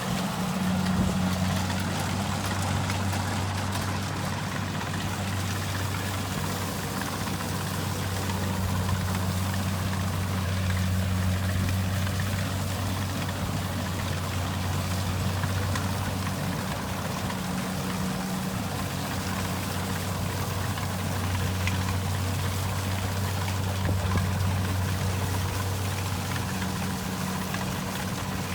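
Kubota rice combine harvester running steadily: a diesel engine drone with a rushing, rattling machine noise over it.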